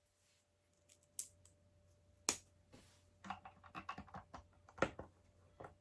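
Small plastic LEGO pieces clicking and tapping as they are handled: a few sharp clicks, the loudest about two seconds in, and a quick patter of small clicks in the middle.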